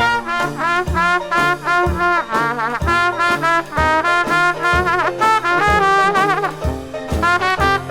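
Instrumental Dixieland jazz band playing: trumpet and trombone lines with wavering pitch weave over a steady, evenly spaced bass beat.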